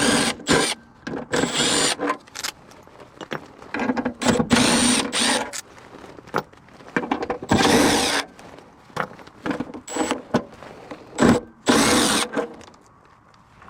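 Cordless drill-driver running in about five short bursts a few seconds apart, with metal clicks and knocks between them: screws being driven in or out while an HVAC blower motor is swapped.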